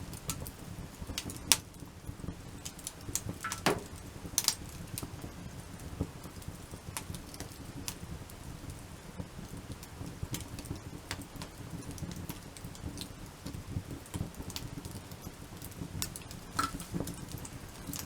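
Wood campfire crackling: irregular sharp pops and snaps over a low steady rumble, with the loudest pops about one and a half and four and a half seconds in.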